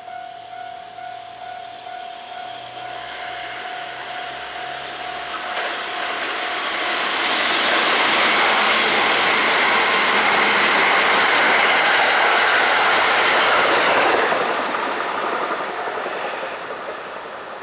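A Kintetsu limited express electric train approaching and passing at speed, building from a few seconds in, loudest from about seven to fourteen seconds in, then fading away. Until it comes close, a steady electronic tone sounds under it.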